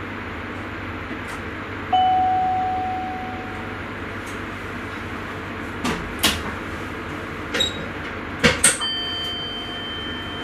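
Steady running noise inside the cab of a Sprinter electric commuter train. About two seconds in there is a single chime-like ding that fades out. It is followed by several sharp clicks and knocks, and near the end a steady chime tone.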